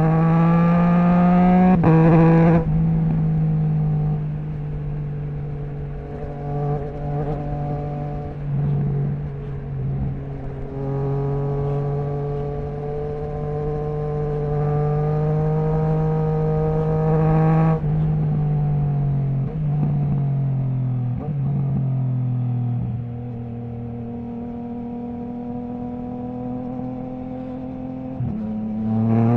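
Triumph Trident 660's inline three-cylinder engine through a Zard stainless full exhaust with the baffle removed, under way: the note climbs hard at the start and cuts off at about two and a half seconds, then climbs steadily for several seconds in the middle before the throttle closes and it falls away. It settles to a lower steady note and rises again right at the end.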